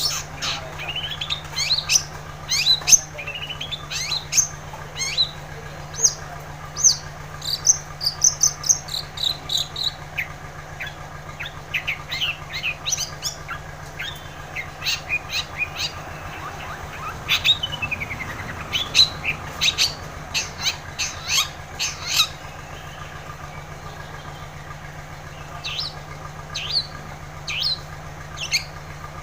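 Long-tailed shrike (cendet) singing a fast, varied run of sharp chirps and whistled notes in dense bursts, with a short lull near the end. A steady low hum lies underneath.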